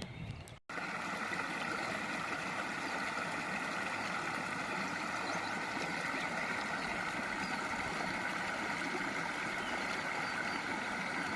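Steady rushing of a flowing stream, after a brief cut to silence about half a second in.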